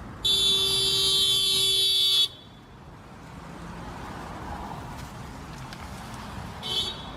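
Car horn honking: one long blast of about two seconds, then a short toot near the end, over steady road noise.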